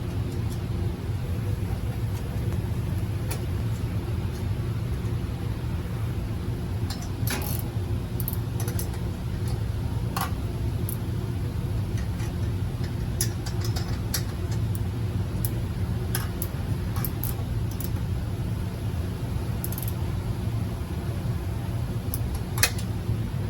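Honda Step WGN engine idling steadily, with scattered light metallic clicks and clinks.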